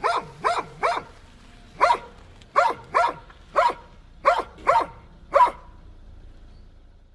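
A dog barking, about ten short barks in irregular bursts, some in quick pairs, stopping about five and a half seconds in.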